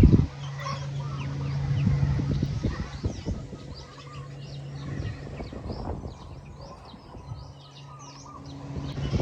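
A small RC truck's motor hums steadily, stops about three seconds in and starts again near the end, with bird calls throughout.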